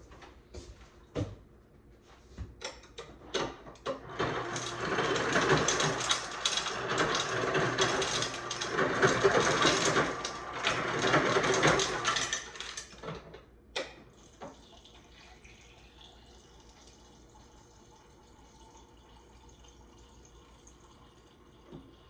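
Water running from a tap for about eight seconds, filling a glass, with clicks and knocks of handling before and after.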